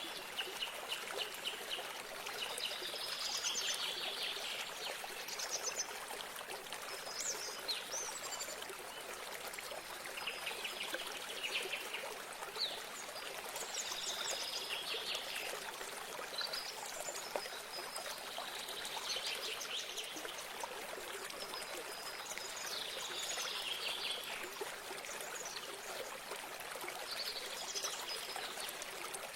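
Small stream of water trickling and running steadily, with a songbird singing short chirping phrases about every three seconds.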